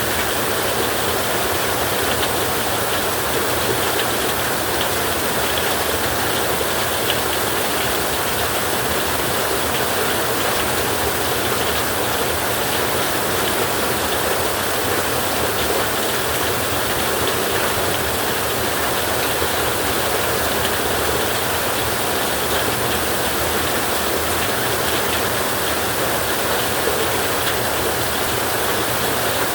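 Heavy rain falling steadily on a metal roof, an even, unbroken hiss with no thunderclaps standing out.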